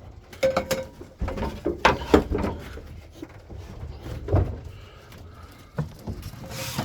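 Irregular knocks and clatters of a box, its door and a feed pot being handled, with a few soft scuffs between.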